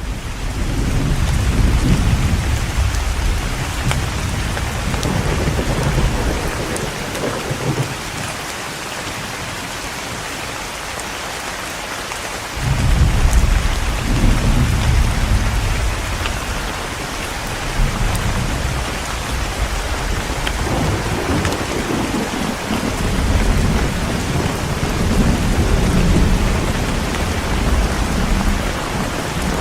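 Heavy rain falling in a steady hiss, with thunder rumbling low and rolling through it; a strong rumble swells up about halfway through.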